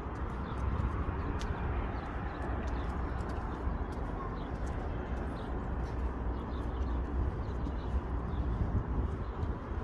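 Outdoor ambience in a small urban park: a steady background hum with a low rumble, and faint bird calls now and then.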